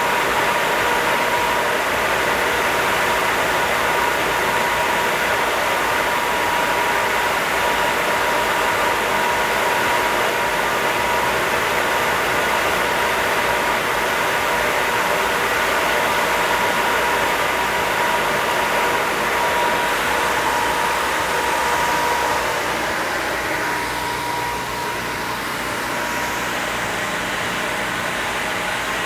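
Northfield No. 8 planer with a helical carbide cutter head, running under power with a steady hum and whine. About three quarters of the way through, the sound drops a little and its pitch pattern changes.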